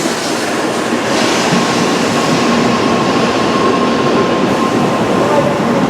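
Tokaido Shinkansen train moving along the station platform track: a loud, steady rush of running noise with a faint steady whine over it for a few seconds.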